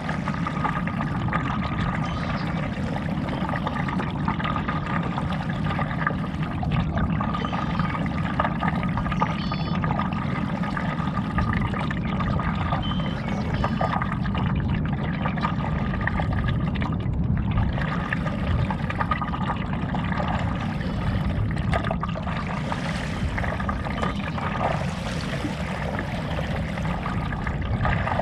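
Stand-up paddle dipping into lake water and water trickling off the blade and around the board, over a steady low rumble.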